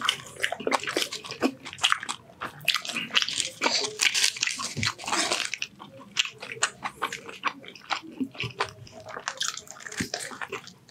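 Close-miked chewing of a tikka wrap, with wet, irregular mouth-smacking clicks, then a fresh bite into the wrap near the end.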